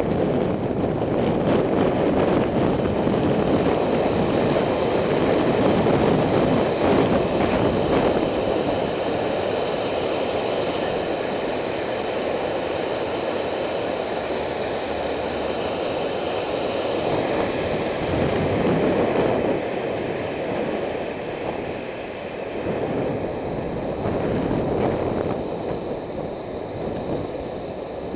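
Steady rushing of wind on the microphone mixed with road noise from a moving bicycle, easing a little in the last few seconds.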